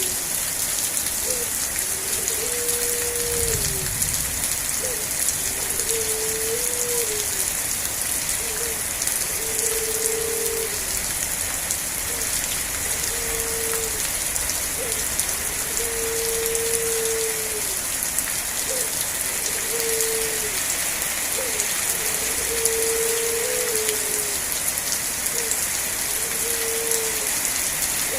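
Steady rain falling, with a short low note recurring every one to two seconds, some notes held about a second and some gliding, and a brief low rumble about four seconds in.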